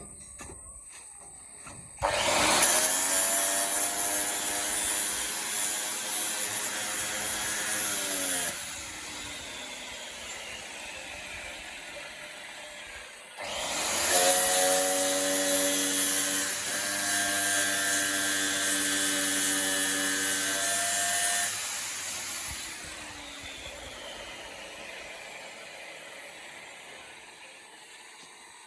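Handheld electric power tool run twice for several seconds each time. Each run starts abruptly at full speed with a steady whine, then winds down slowly with a falling pitch after release.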